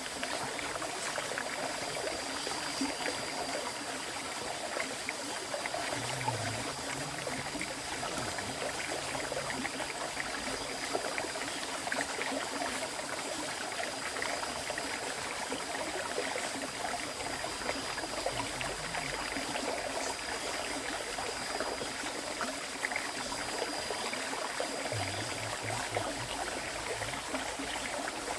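River water flowing over a stony bed: a steady, even rush and babble.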